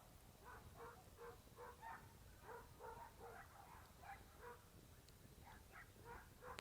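Faint animal calls, short and repeated about three times a second, with a brief pause about two-thirds of the way through.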